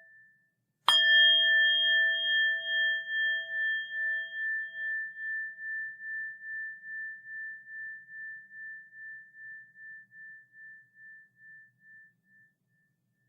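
A bell struck once about a second in, then left to ring out. Its pure ringing tone pulses slowly as it fades away over about eleven seconds. The tail of an earlier ring dies away just before the strike.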